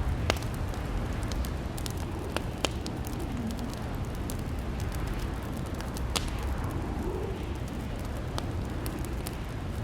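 Wood fire crackling in a fireplace: irregular sharp pops and snaps over a steady low rumble, with a few louder snaps scattered through.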